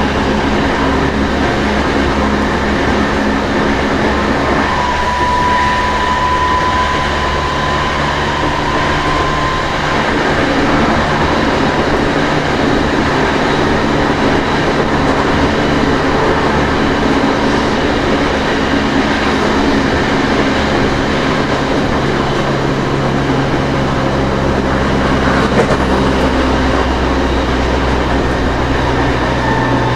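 Running noise inside a Tokyo Metro 07 series car fitted with a trial Hitachi full-SiC VVVF inverter and 8-pole permanent-magnet synchronous traction motors: steady motor and inverter tones over the rumble of the wheels on the rails. A thin high tone rises slightly from about five to ten seconds in.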